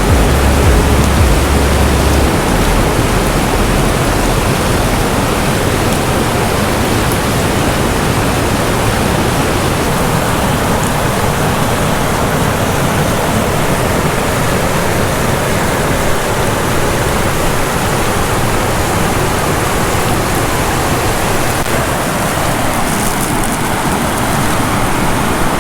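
Waterfall rushing loudly and steadily at close range, with a deep low rumble in the first couple of seconds.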